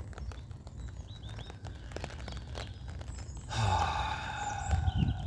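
A long, deep exhaled breath about three and a half seconds in, lasting a second and a half and falling slightly, as part of a guided deep-breathing exercise. Before it there is a low rumble with scattered light clicks.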